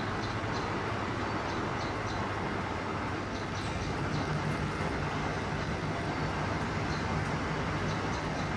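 Steady low rumble of distant traffic, with faint short high chirps scattered through it.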